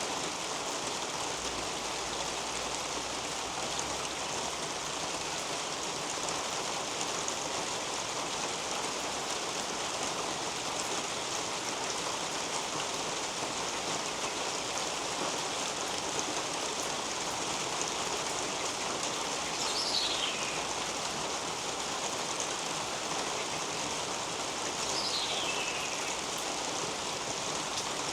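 Steady rain falling on garden foliage and a roof overhead, an even hiss that never lets up. About two thirds of the way in, and again some five seconds later, a bird gives a short high call that falls in pitch.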